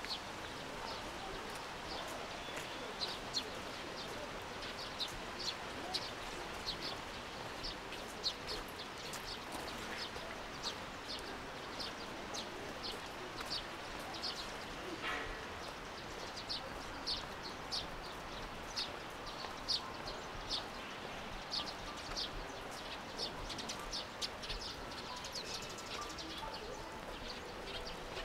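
Small birds chirping: many short, high chirps scattered throughout, over steady background noise.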